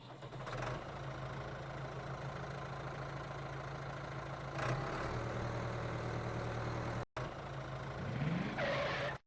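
Mini tractor's small engine running steadily, then revving up with a rising pitch about eight seconds in. The sound cuts out briefly about seven seconds in.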